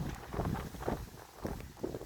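Strong gusty wind buffeting the microphone: an uneven low rumble that surges and drops.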